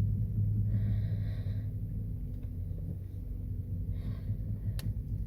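Worn front strut top-mount bearings on a 2012 Skoda Octavia A5 knocking as the steering wheel is turned, over a low steady rumble. There are a few knocks, the sharpest near the end. The bearings have failed.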